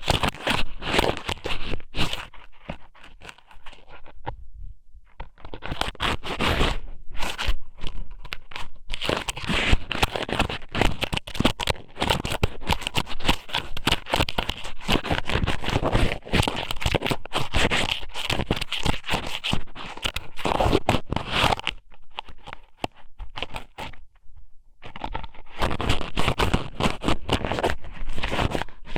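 Strips of squid sashimi (ika somen) pushed into and rubbed around a binaural microphone's ear, giving close, dense crackling and scraping with two short lulls.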